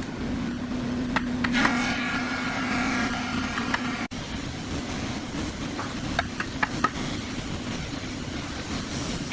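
A steady low hum with a few sharp clicks and knocks, typical of hardware being handled during cabinet work, and a brief ringing tone about two seconds in.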